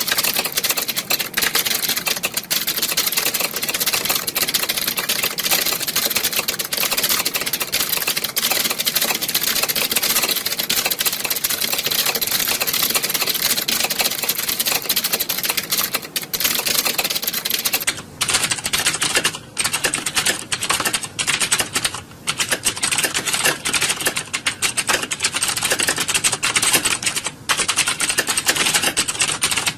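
Many computer keyboards being typed on at once, a dense, continuous clatter of key clicks. From about 18 s in, the clatter thins, with a few brief lulls.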